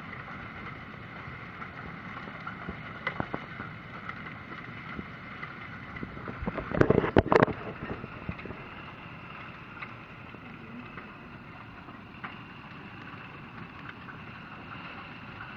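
Hailstorm: a steady hiss of rain and hail with scattered sharp ticks of hailstones striking. About seven seconds in comes a brief burst of loud knocks.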